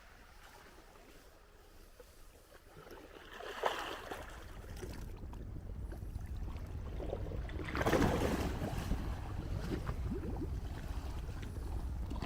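Sea waves washing against the shore, swelling about four seconds in, with the loudest surge about eight seconds in.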